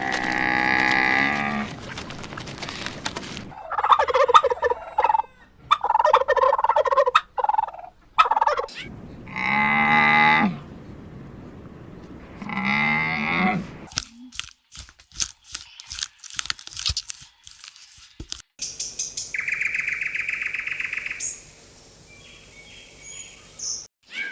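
A series of separate animal calls: several drawn-out pitched cries, a run of sharp clicks in the middle, and a long high call near the end.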